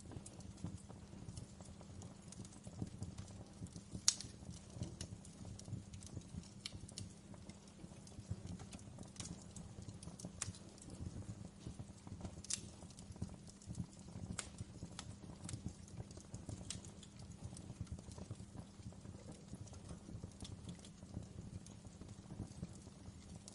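Wood fire crackling in a fireplace: irregular sharp pops and snaps over a steady low rumble of the flames, with a louder pop about four seconds in.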